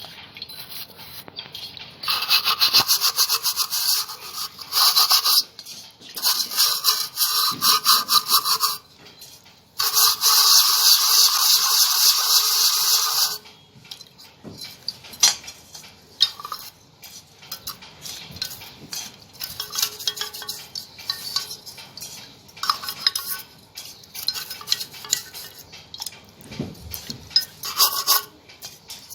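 Rapid scrubbing with a brush in three long bursts, then quieter scattered scrapes and light clicks.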